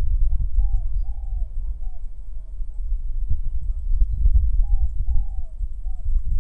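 A dove cooing a short phrase of four soft notes, twice, about four seconds apart, over a steady low wind rumble on the microphone.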